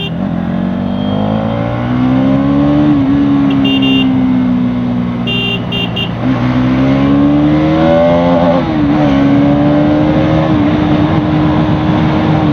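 Bajaj Pulsar NS200's single-cylinder engine pulling and easing off several times as the bike speeds up and slows, with rising and falling pitch that holds steady for the last few seconds. A few short high beeps sound in the middle.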